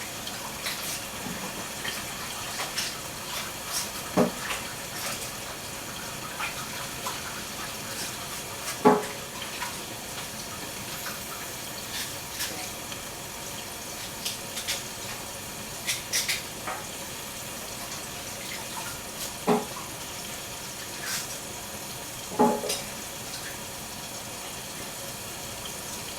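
Tap water running steadily while baby cabbage is washed, with scattered light knocks and clatters, the loudest about nine seconds in.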